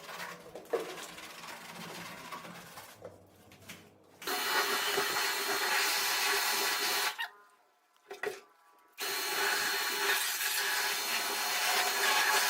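Power tool running in two spells of about three seconds, a steady whine over a harsh scrubbing hiss, with a short stop between them. It is likely a drill-driven brush scrubbing the foamed steel scooter chassis. Softer rubbing is heard before it starts.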